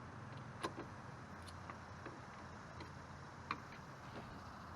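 Faint low steady hum of a vehicle engine, with a few light clicks, the sharpest about half a second in and again about three and a half seconds in.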